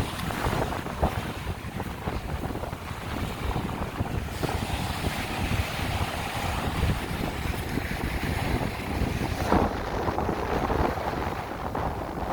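Strong wind buffeting the microphone, with surf washing on the shore beneath it.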